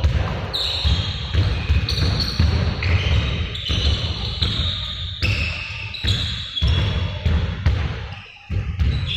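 Balls bouncing repeatedly on a hard floor, with frequent low thuds and short high squeaks, typical of a basketball practice.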